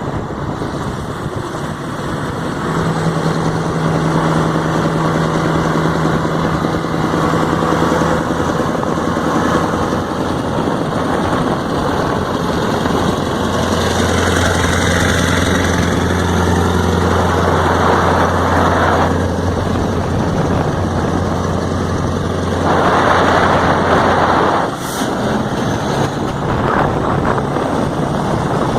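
V8 engine running with a deep, steady rumble. Two louder surges come in the second half, the second ending abruptly.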